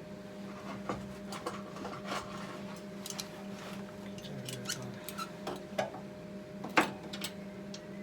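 Light metallic clicks and taps at irregular intervals, with one sharper click about seven seconds in, over a steady electrical hum.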